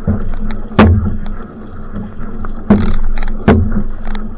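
Outrigger canoe (va'a) on the water: paddle strokes and sharp splashes, three of them clearly loudest, over a steady low hum.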